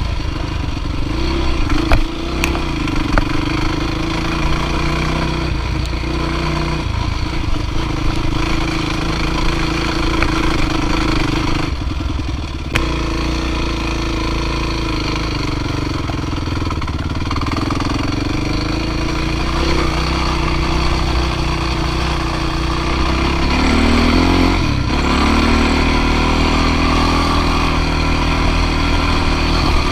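Dirt bike engine running steadily under load, with a few sharp knocks about two seconds in and again around twelve seconds. The engine pitch rises briefly near the end.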